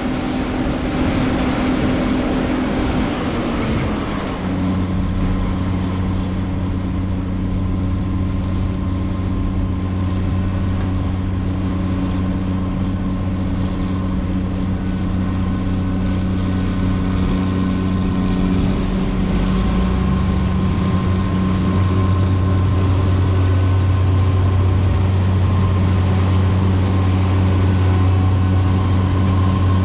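John Deere 9560 Walker combine running steadily while harvesting corn, a loud mechanical drone of engine and machinery. Its pitch drops a little about three to four seconds in, then holds, and the deep hum grows louder after about twenty seconds.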